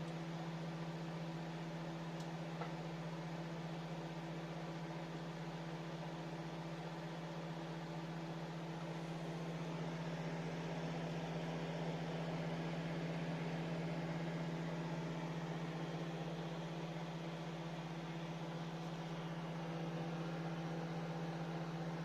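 VEKTA MS5720EHW microwave oven running: a steady hum over an even rushing noise.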